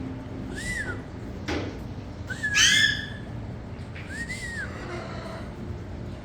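A bird whistling three short arched notes, each rising and falling, about one every second and a half to two seconds; the middle one is the loudest. A short click comes between the first two, over a steady low hum.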